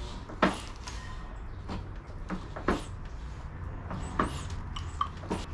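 Hands working on a motorcycle engine: about seven irregular light clicks and knocks of parts and tools being handled, over a steady low hum.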